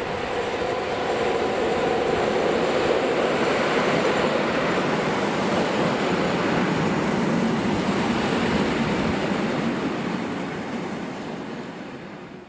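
Electric multiple-unit passenger train passing close by: steady wheel-on-rail and running noise that swells over the first couple of seconds, holds, and fades away near the end as the train recedes.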